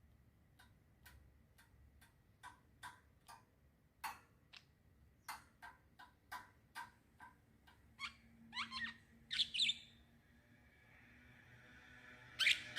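Small songbirds chirping: a run of short single chirps about two a second, then quicker, more varied twittering calls, with the loudest burst of chirps near the end.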